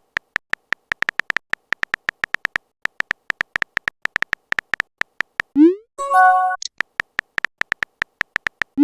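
Phone-keyboard typing clicks, several a second with a brief pause partway, then a rising swoosh and a short electronic chime of a chat message being sent. The clicks resume, and another rising swoosh comes at the very end.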